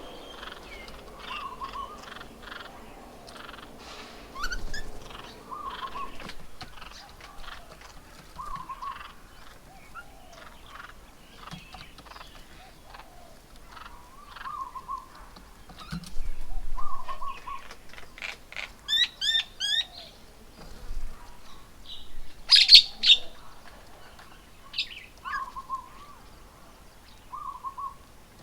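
Garden birds calling around a bird table: one short low call repeats about every second and a half to two seconds, with assorted chirps over it. A quick run of rising whistled notes comes about two-thirds of the way in, and a few loud sharp calls follow soon after.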